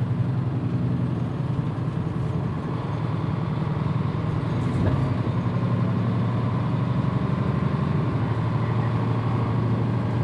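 Mitsubishi Fuso Aero Star PJ-MP35JM city bus running on the road, its diesel engine giving a steady low hum whose pitch shifts slightly as it goes, with a faint click about halfway through.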